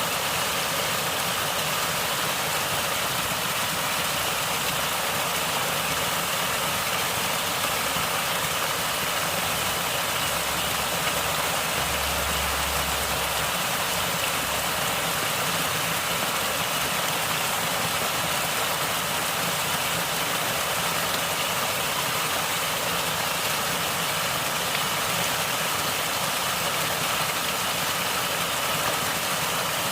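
Natural water flowing and gurgling steadily, an unbroken rush with no let-up.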